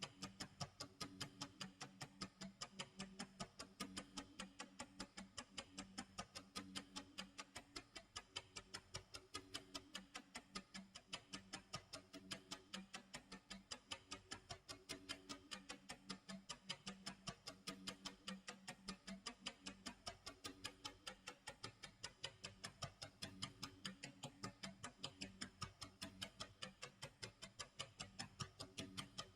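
Clock tick-tock sound effect: quiet, evenly spaced ticks going on steadily, with a low repeating tone underneath.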